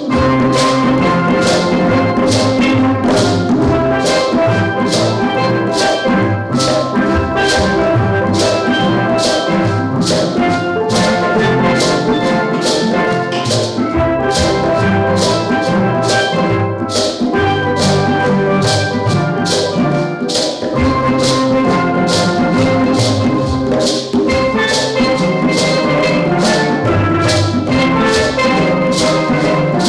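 Steel drum band playing an ensemble piece, many pans sounding notes together over a steady percussion beat.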